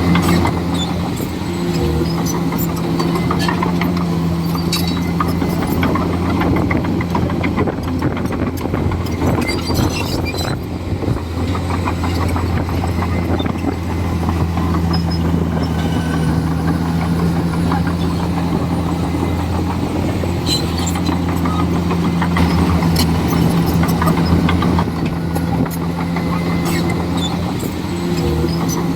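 Komatsu D41E crawler bulldozer's diesel engine running steadily, with scattered sharp clicks and clanks over the engine note.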